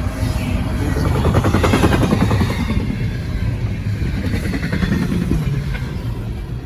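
CSX freight train rolling past close by: a loud, low rumble and clatter of the train going by, easing off slightly toward the end.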